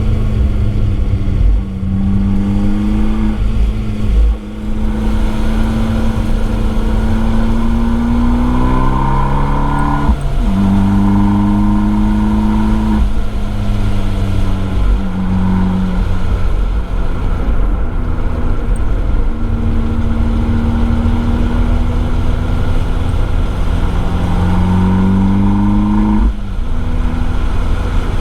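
Abarth 595 Esseesse's turbocharged 1.4-litre four-cylinder under hard acceleration through its Akrapovič exhaust, picked up by a microphone in the boot. The engine note climbs in pitch and drops at each gear change, several times over.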